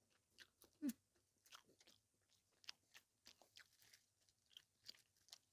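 Faint close-up chewing: scattered small crunches and mouth clicks as a person eats, with a brief hum about a second in.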